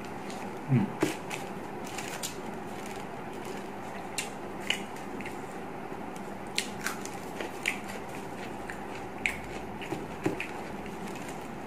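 A man chewing mouthfuls of nasi lemak with fried anchovy sambal, eaten by hand: scattered short crunches and wet mouth clicks over a steady low room hum, with a short low vocal sound about a second in.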